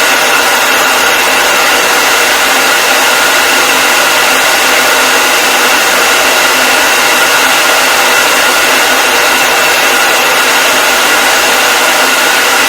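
Hair dryer running continuously at a steady speed: an even, unchanging rush of airflow with a faint steady whine from the motor and fan.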